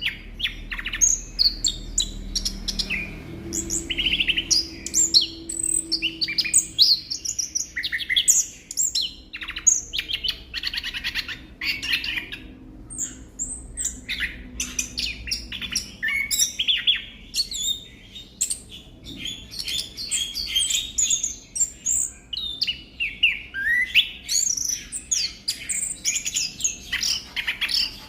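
Chestnut-capped thrush (anis kembang) singing a long, fast run of varied high chirps and trills, nearly unbroken, with a short pause about halfway through.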